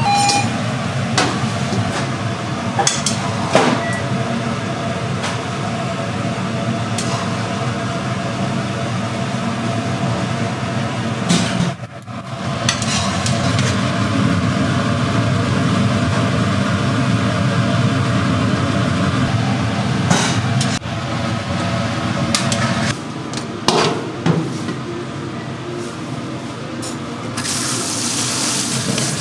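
Commercial kitchen work: a steady low rumble of burners or ventilation, with scattered clinks and knocks of utensils and cookware. Near the end a brighter hiss comes in.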